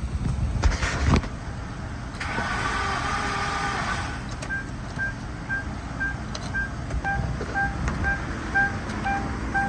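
A few knocks, then from about four and a half seconds in a steady electronic warning beep repeating between two and three times a second, over a low vehicle rumble.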